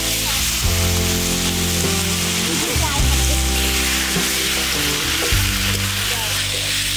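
Chicken pieces in turmeric masala sizzling and frying in a large metal wok, stirred and turned with a metal spatula. Background music with held notes plays underneath.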